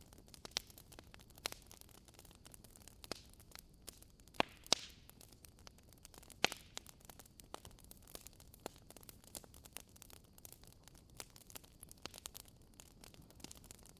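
Burning logs crackling in a fireplace: irregular sharp pops and snaps over a faint steady hiss, with the loudest snaps coming together between about four and six and a half seconds in.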